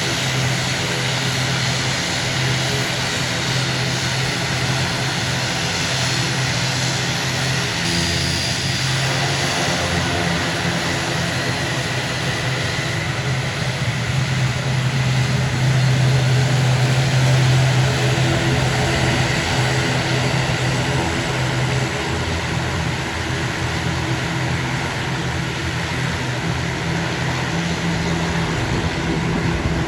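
Airliner engines running with a steady drone and a strong low hum. The drone grows a little louder about halfway through, then settles again.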